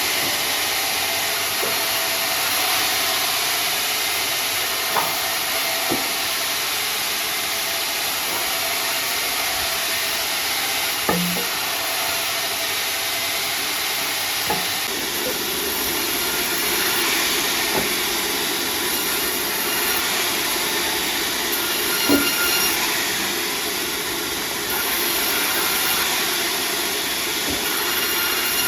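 Sawmill machinery running with a steady hissing noise, and a few single sharp knocks through it.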